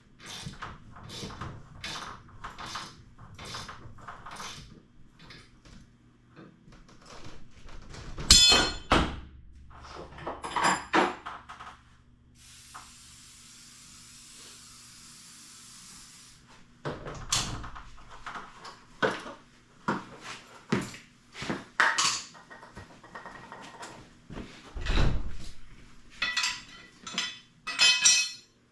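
Hand tools and metal hardware being worked during a garage door torsion spring replacement: a run of quick knocks and clicks about two a second, then a few loud metal clanks and a steady hiss lasting about four seconds midway.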